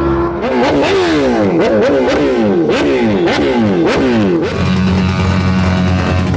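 Motorcycle engine revved in a run of quick throttle blips, about two a second, each rising sharply and falling back, then settling into a steady idle about four and a half seconds in.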